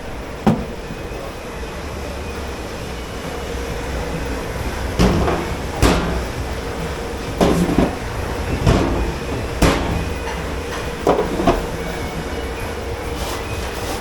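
Dishes, pots and trays clattering and knocking in a commercial kitchen's dish pit, about eight sharp knocks at irregular intervals, over a steady low machine hum.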